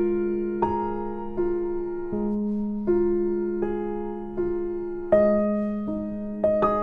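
Background music: a slow, gentle piano melody of single notes over a held low note.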